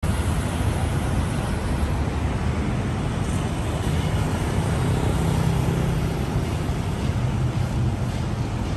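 Steady city traffic noise: a continuous low rumble of passing vehicles.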